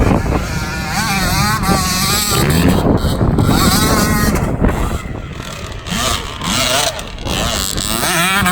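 Small off-road vehicle engine revving up and down repeatedly as it is ridden hard, its pitch climbing and falling every second or so.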